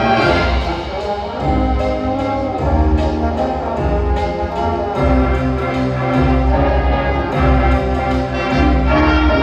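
Indoor winds ensemble of brass and woodwinds playing a loud, full arrangement in sustained chords, punctuated by sharp accented hits.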